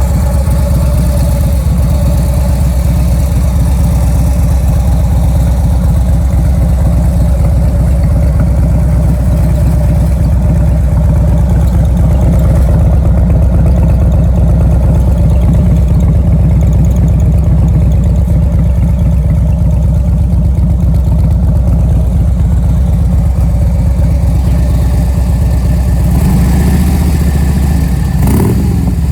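Harley-Davidson Street Glide's 1580 cc V-twin idling steadily through Vance & Hines four-inch mufflers, revved briefly near the end.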